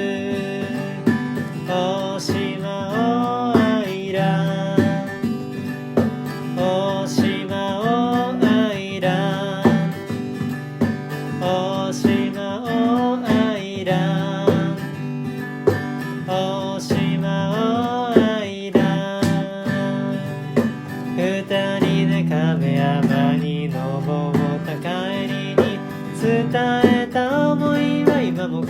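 Acoustic guitar music: steady strummed chords with a bending melodic line over them.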